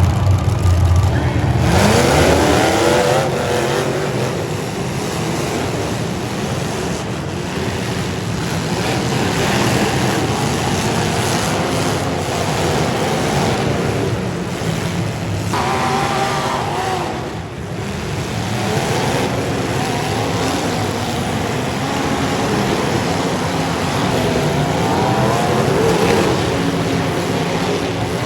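Demolition derby cars' engines running hard, revs rising sharply a few times.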